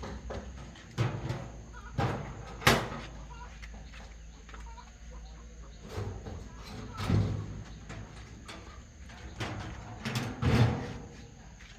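A series of irregular knocks and clunks, the sharpest a crack about two and a half seconds in and a cluster near the end.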